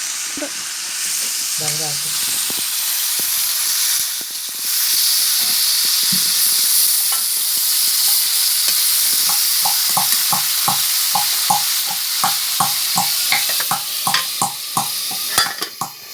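Food sizzling as it fries in hot oil in a pan, a loud steady hiss. From about nine seconds in, a regular run of light knocks, about three a second, sounds over the sizzle.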